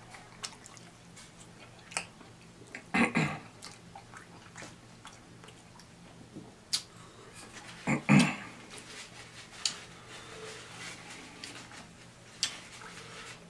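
A person chewing chicken wings close to the microphone: wet mouth clicks and lip smacks, with two louder short mouth sounds about three and eight seconds in. A faint steady low hum runs underneath.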